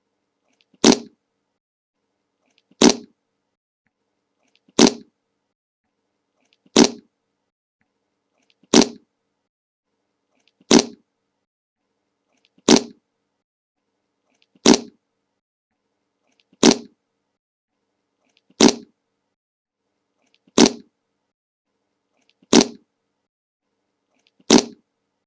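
The same short fart sound effect played on a loop, thirteen identical brief farts about two seconds apart with silence between them.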